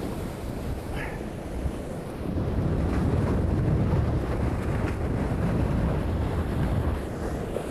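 Wind buffeting the microphone and water rushing past the hulls of a sailing catamaran moving fast in strong wind, getting louder about two seconds in.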